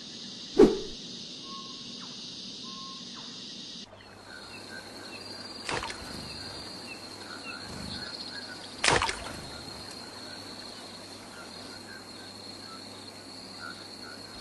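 Steady outdoor background noise with faint short chirps and three sharp knocks, about half a second, six seconds and nine seconds in. The background changes abruptly about four seconds in.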